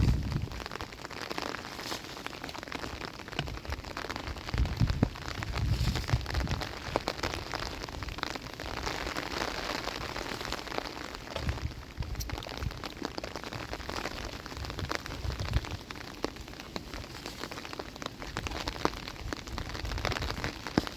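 Steady rain pattering, with scattered small ticks and a few low thumps.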